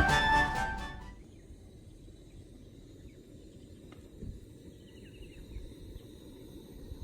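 Background music ends about a second in, giving way to quiet open-air ambience: a low steady rumble of wind noise, a thin steady high tone like an insect, and a few faint high chirps with a brief trill about five seconds in.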